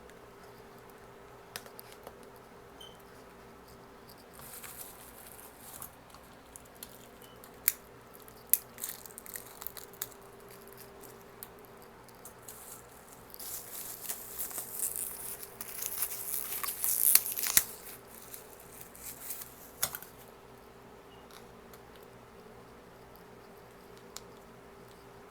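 Takeout food packaging crinkling and rustling close up, with scattered sharp clicks and taps. The crinkling comes in two stretches, a short one about five seconds in and a longer, louder one in the middle.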